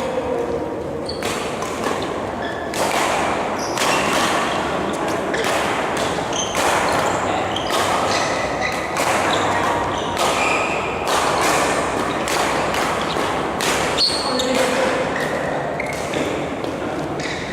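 Badminton being played in a sports hall: a running series of racket hits on the shuttlecock and footwork on the court, with short high squeaks and a hall echo.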